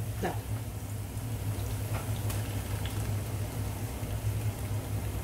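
Onion-tomato biryani masala gently sizzling and bubbling in a non-stick pot on low heat, with a few faint ticks as ground coriander-mint paste is poured in. A steady low hum runs underneath.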